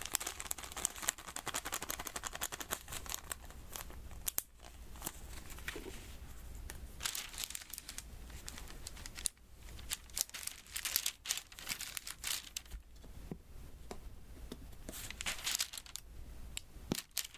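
Diamond-painting beads pressed one by one onto the sticky adhesive canvas, making a run of small sticky clicks and crackles.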